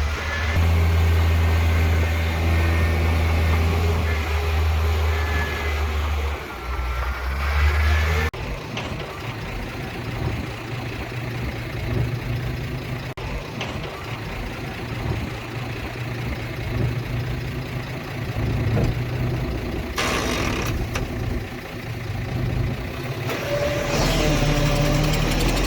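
Heavy diesel earthmoving machinery running: a deep, steady engine tone that changes abruptly about a third of the way in to a rougher engine sound, with short bursts of hiss near the end.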